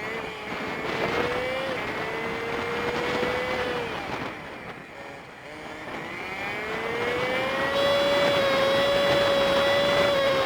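Honda Super Cub 50's small single-cylinder engine running under way, with rushing road and wind noise. The engine's note and loudness dip about four to six seconds in, then climb and hold higher to the end.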